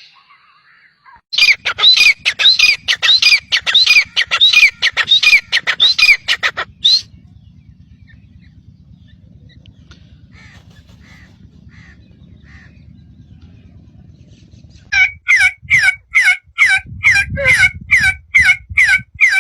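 A bird giving two fast runs of short, sharp calls, about three a second. Between the runs there are several seconds with only a few faint calls.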